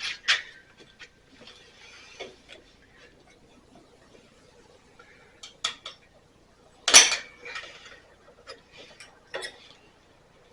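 Metal hand tools clinking and knocking: a handful of sharp clanks with handling rustle between them, the loudest about seven seconds in.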